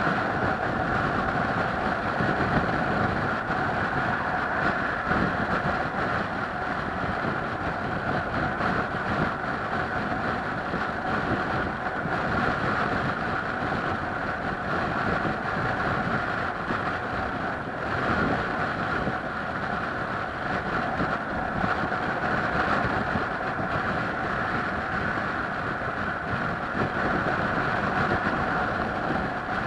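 Steady running noise of a moving vehicle, with a constant hum and wind on the microphone.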